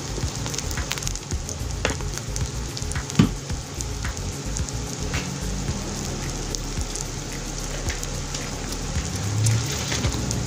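Onion, garlic and mayonnaise frying in oil in a pan: a steady sizzle with scattered small pops and crackles, and one louder click about three seconds in.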